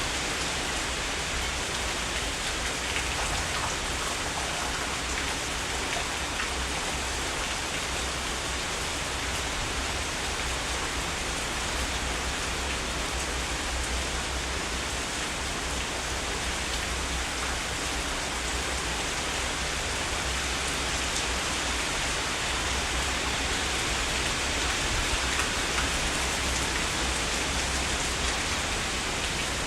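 Heavy rain falling steadily: an even, unbroken hiss of drops over a steady low rumble.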